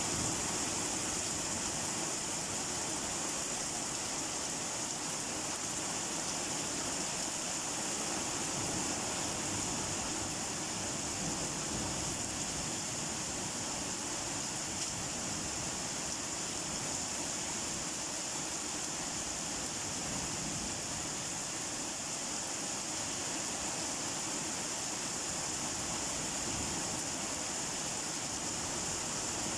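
Steady rain falling, an even unbroken hiss with no distinct drops or thunder.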